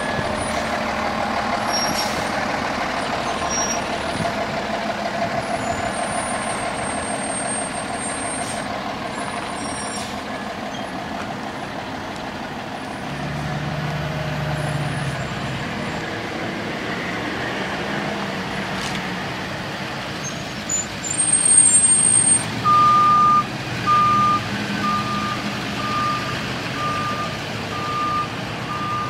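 2012 KME fire engine running as it returns to the station, its diesel engine going steadily. Near the end come a few loud bursts, and then its reversing alarm starts, one steady beep about once a second as it backs up.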